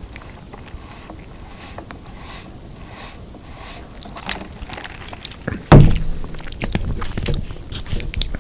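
Close-miked chewing of a folded beef burger, soft and repetitive at first. A little over halfway through comes a sudden loud low thump, followed by a busier run of sharp crackly clicks from biting and chewing.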